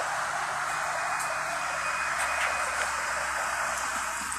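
Steady hiss of rain on wet pavement, with the low hum of the idling NefAZ 5299 city bus faintly underneath.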